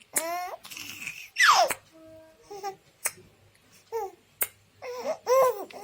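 A baby babbling and squealing in short high-pitched bursts, with one squeal falling sharply in pitch about a second and a half in. A few sharp clicks come between the vocal bursts.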